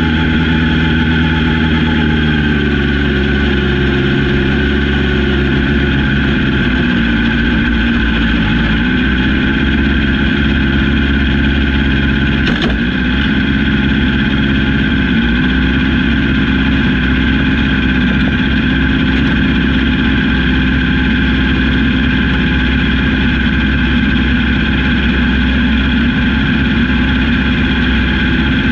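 A small-capacity 750cc race-car engine idling steadily at low revs, heard from inside the cockpit, its pitch dipping slightly in the first few seconds. There is a single short click about halfway through.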